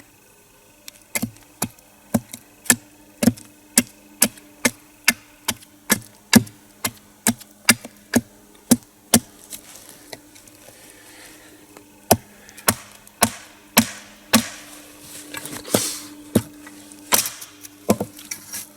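Wooden wedges being hammered into a cracked log to split it lengthwise: sharp blows about two a second, a short pause near the middle, then more irregular blows.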